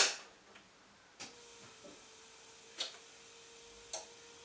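Four short, sharp clicks spaced about a second apart, the first the loudest, with a faint steady hum that comes in after the second click.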